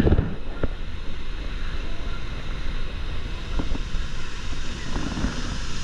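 Rushing river water with wind buffeting the microphone, a steady noisy rumble with a few small knocks.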